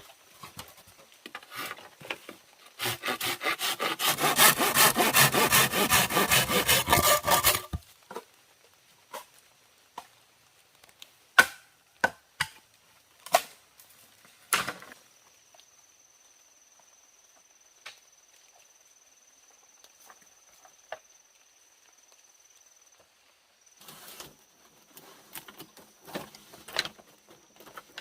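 A hand saw cutting through wood in a run of rapid, even strokes for about five seconds, followed by scattered sharp knocks and handling of wood.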